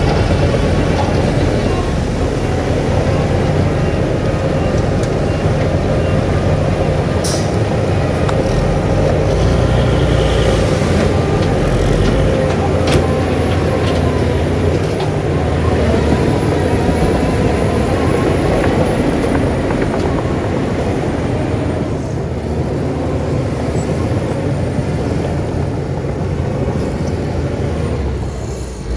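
Diesel engines of heavy earthmoving machinery running steadily, with a constant low hum and mechanical clatter. Two sharp clicks come about 7 and 13 seconds in.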